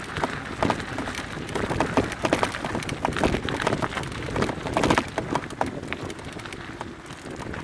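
Mountain bike clattering over a rough, stony trail, with a fast irregular run of knocks and rattles over the crunch of tyres on gravel.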